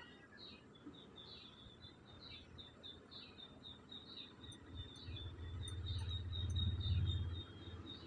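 Small birds chirping in quick, short, high notes throughout. A low rumble swells up about five seconds in, is loudest around seven seconds, and drops off near the end.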